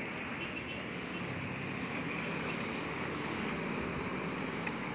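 Steady rumble of vehicle engine noise, with no distinct events standing out.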